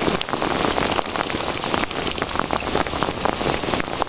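Steady heavy rain, a dense hiss of falling rain with many close, separate drop hits.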